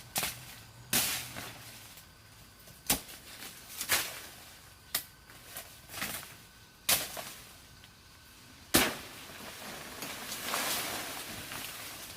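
A series of sharp knocks or strikes at irregular intervals, roughly one a second, the loudest near the end of the run; then a stretch of rustling, scraping noise.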